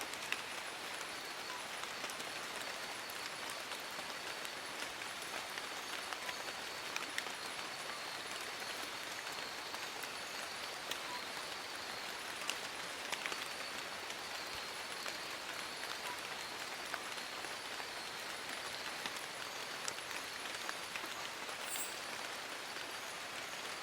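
Steady rain falling on forest leaves: an even hiss with many sharp individual drop ticks scattered through it.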